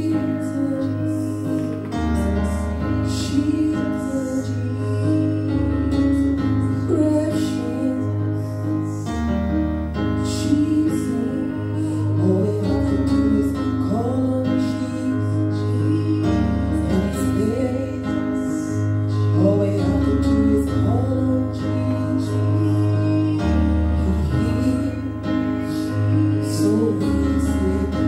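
Church praise team singing a slow gospel song, led by female voices, over sustained keyboard chords with bass notes that change every couple of seconds.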